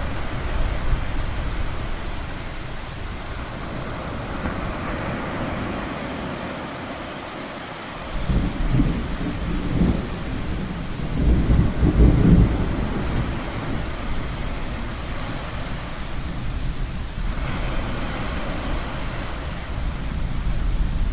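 Gentle, low thunder rumbling, with two heavier rolls about eight and eleven seconds in, over a steady wash of ocean waves.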